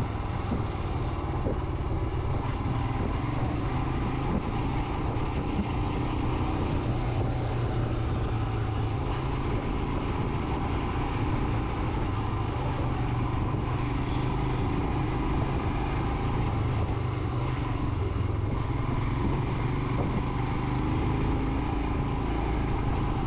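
Royal Enfield Himalayan motorcycle running steadily at an even speed while being ridden.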